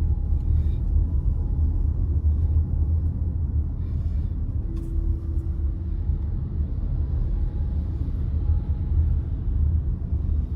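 Car driving, a steady low rumble of engine and road noise, with a brief steady hum about five seconds in.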